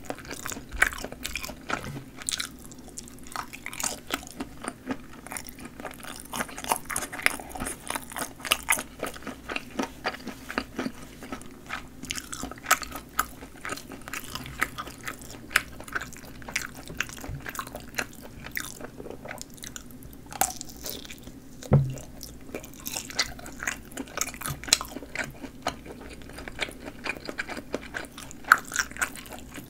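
Close-miked eating of sausage: bites snapping through the casing and moist chewing, made up of many small clicks and smacks. There is one heavier knock about twenty-two seconds in.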